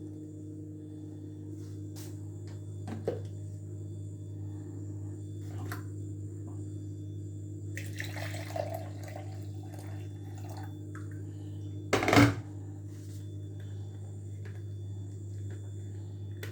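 A steady electrical hum runs under a few light clicks. About eight seconds in comes a short splash of water, like pouring or a tap. About twelve seconds in there is one loud knock, like a pot or lid being set down.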